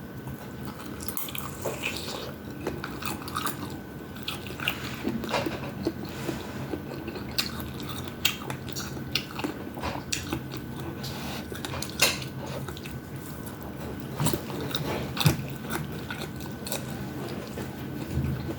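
Close-up mukbang eating: a person chewing and biting into food, with scattered crunches and sharp clicks, over a steady low hum. Two clicks about twelve and fifteen seconds in are louder than the rest.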